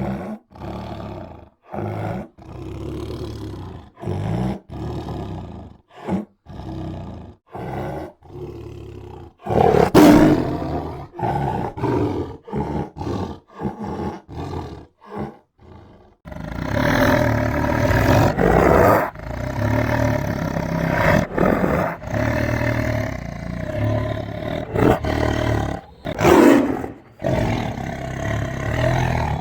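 Tiger roar sound effect: a quick string of short, separate growls for the first half. From about halfway it becomes one continuous, rumbling growling roar, with louder swells near the end.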